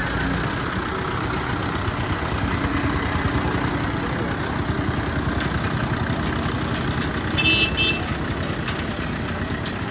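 Heavy diesel vehicles running in a steady engine rumble, with a short vehicle horn toot about seven and a half seconds in.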